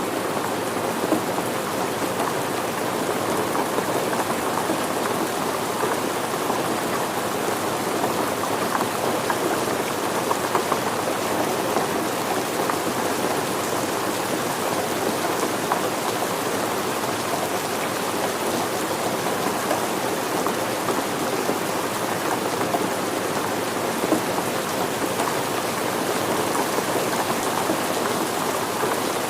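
Steady rain falling on surfaces, an even patter of many drops with no let-up.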